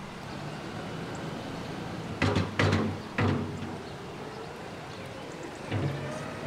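Farm tractor engine running steadily while its front scoop tips a load, with three loud clanks about two to three seconds in and another near the end.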